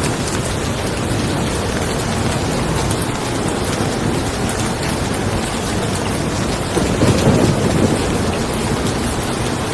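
Steady rain falling on a car, with a low roll of thunder swelling up about seven seconds in.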